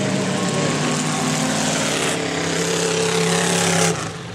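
Demolition derby car engine running hard under throttle, its pitch climbing over the second half. The sound drops away abruptly near the end.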